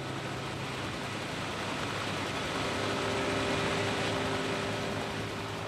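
Steady rushing, engine-like noise with a faint low hum, growing a little louder around the middle and easing off near the end.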